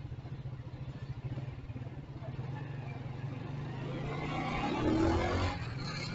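Motorcycle engine running at low revs with a steady, pulsing note. About four seconds in, louder road and engine noise swells up and then eases off.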